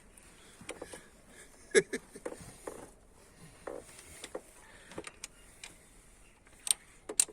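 A torque wrench working on cylinder head bolts, with metal tools clinking: scattered short metallic clicks, a sharp one about two seconds in and two more near the end.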